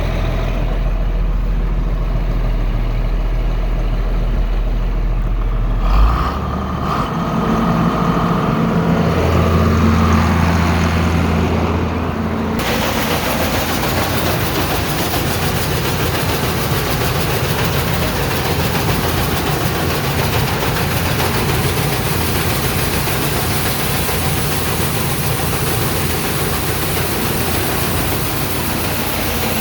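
A tractor engine running steady, its low hum shifting pitch about six seconds in. From about twelve seconds in, a loud, even rushing hiss joins it and keeps on.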